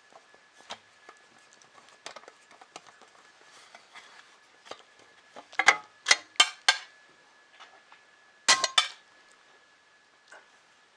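Small metal parts and tools being handled while assembling a 3D printer kit. Scattered light taps are followed by four sharp clinks about six seconds in and a quick rattle of clinks near nine seconds, over a faint steady high whine.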